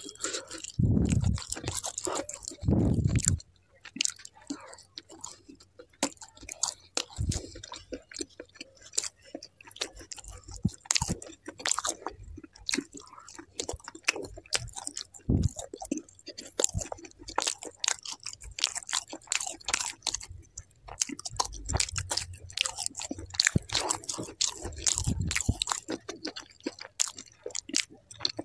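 A man chewing and biting close to the microphone as he eats naan dipped in kadhai paneer gravy and soft paneer cubes. There are many small, irregular mouth clicks, with heavier, louder mouthfuls in the first few seconds.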